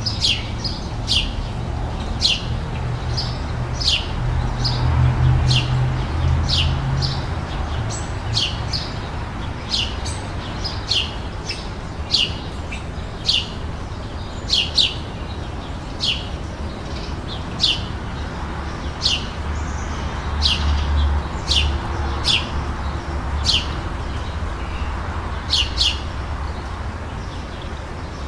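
A small songbird chirping over and over, short sharp high chirps about once a second, over a low background rumble.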